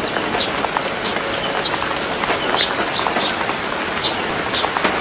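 Steady heavy rain falling, a dense hiss with many separate drops ticking sharply on top.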